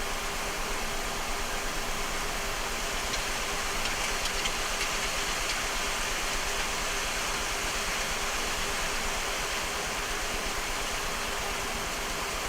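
Steady flight-deck noise of a Boeing 737-300 in descent on approach: an even rush of air around the cockpit with a faint steady hum underneath.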